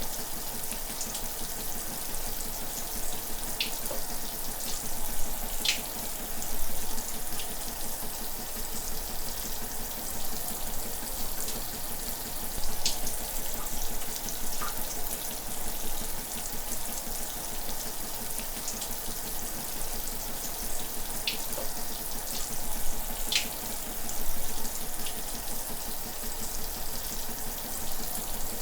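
Shower running steadily: an even hiss of falling water, with scattered brief splashes and drops standing out now and then.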